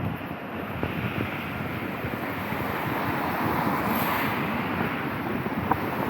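Wet-street noise in the rain, swelling about halfway through as a vehicle passes on the wet road.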